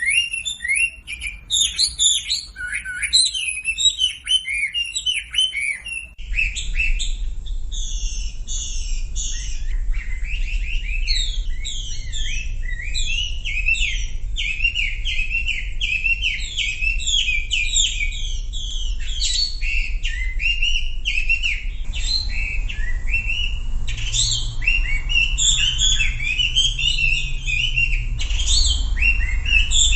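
Wambi song from a masteran recording: a dense, continuous run of quick high chirps. The recording switches to a different take about six seconds in, with a low hum beneath it.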